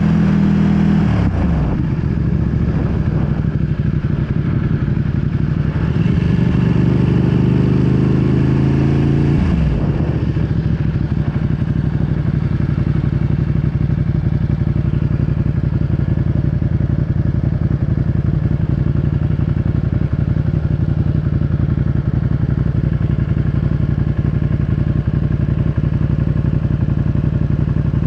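2020 Ducati Panigale V2's 955 cc Superquadro V-twin through a full Akrapovic exhaust. The revs drop about a second in, come up again, and drop near ten seconds in, then the engine settles into a steady, evenly pulsing idle.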